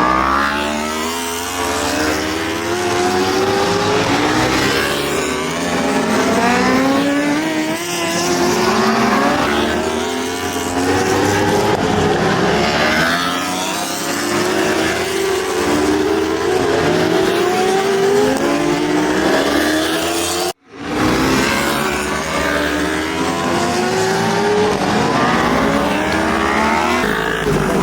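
Several superbike racing engines revving hard, their pitch climbing through the gears over and over as the bikes accelerate. The sound cuts out for a moment about twenty seconds in.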